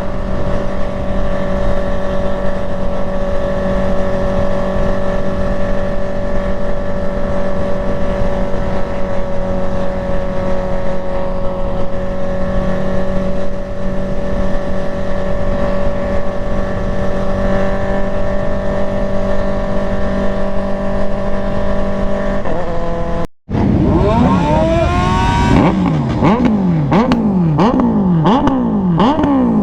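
Motorcycle engine running at a steady speed. After a brief break, an engine is revved over and over, its pitch climbing and dropping back about once a second.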